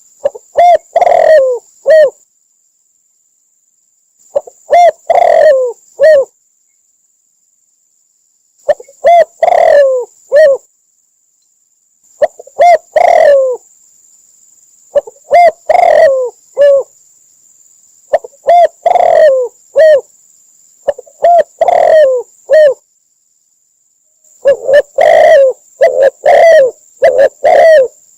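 Spotted dove song: loud phrases of several short, low coos, one phrase every few seconds with pauses between, the phrases coming closer together near the end. A faint steady high-pitched whine runs under it.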